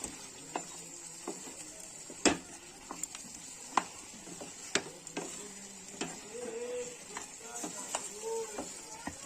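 A spatula stirring chicken into a thick frying masala in a pan, knocking and scraping against the pan at irregular intervals, over a faint steady sizzle. The loudest knock comes a little over two seconds in.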